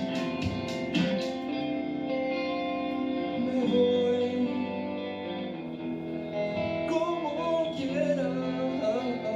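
Live rock band music: guitar strumming that stops about a second in, followed by held, ringing guitar chords and a melodic line.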